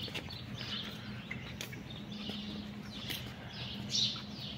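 Small birds chirping in the trees, many short calls scattered throughout and a brief louder cluster about four seconds in, over a steady low hum.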